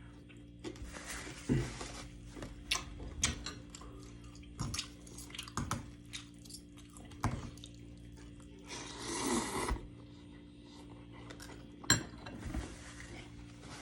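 Dishes and cutlery clinking and tapping during a meal, in scattered sharp clicks, with two short bursts of rustling noise. A steady low hum runs underneath.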